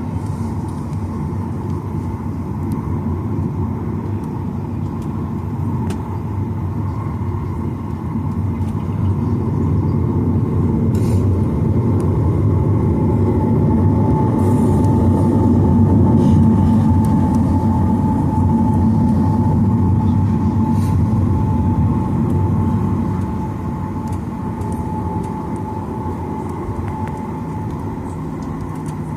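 Boeing 737-900ER takeoff heard from inside the cabin: its CFM56-7B engines at takeoff thrust over a continuous rumble. The rumble swells through the middle, when a steady high whine joins it, then eases near the end.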